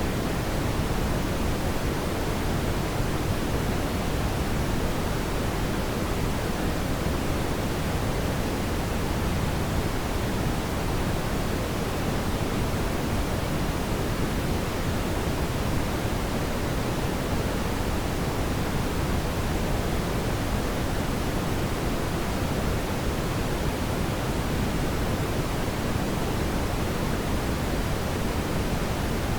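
Steady synthetic brown noise: a deep, even rushing hiss, strongest in the bass and softer in the treble, without change.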